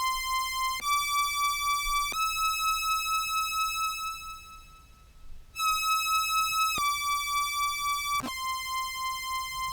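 Meris Enzo monosynth tone tracking a contrabass clarinet's highest notes an octave up: three held notes stepping up, a short break, then the same three stepping back down. Faint clicks at the note changes, which the player takes for the clarinet's key clicks being picked up by the tracking.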